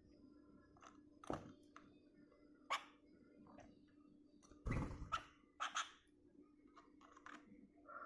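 Sooty-headed bulbul pecking at cigarette ash: irregular sharp taps and clicks, a loud one about a second in and another near three seconds, then a quick cluster around five to six seconds.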